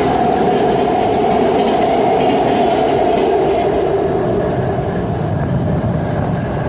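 GE Evolution Series diesel-electric locomotives (an ES44AC leading) idling while the train stands, a loud steady drone with a steady whine on top.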